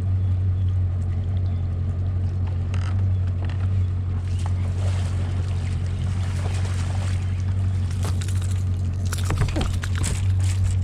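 Steady low drone of an idling engine, starting abruptly, with a few faint clicks and splashes late on.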